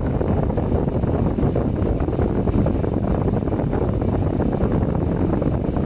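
Steady, loud low rumble of background noise, without speech.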